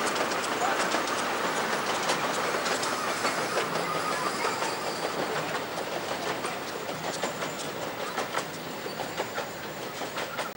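Miniature 15-inch gauge steam train and its carriages running past, wheels clicking over the rail joints, fading as it moves away.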